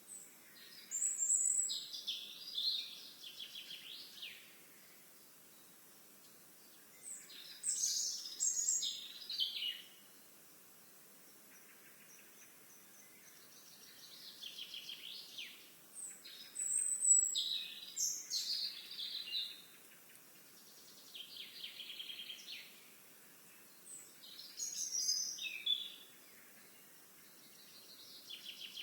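Songbirds singing: phrases of high notes and fast trills, each a couple of seconds long, repeated every few seconds with quiet gaps between.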